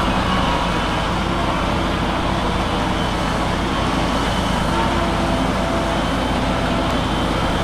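Diesel engine of heavy earthmoving machinery running steadily, a constant engine drone with no letup.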